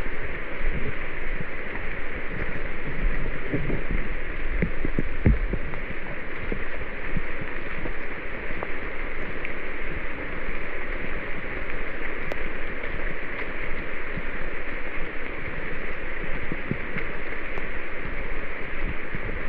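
Steady rushing water noise without let-up, with a few dull low thumps about four to five seconds in.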